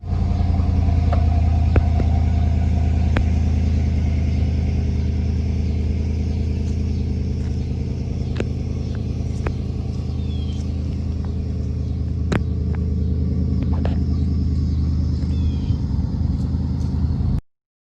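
A car engine idling steadily, a deep even rumble that neither rises nor falls, with a few light clicks over it; it cuts in and cuts off abruptly.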